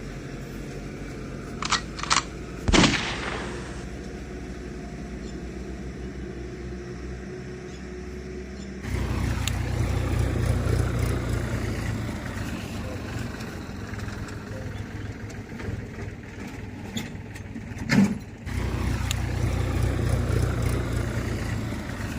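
Engine running steadily, with a few sharp knocks about two to three seconds in; the engine gets louder about nine seconds in, briefly drops back with another knock near eighteen seconds, then runs louder again.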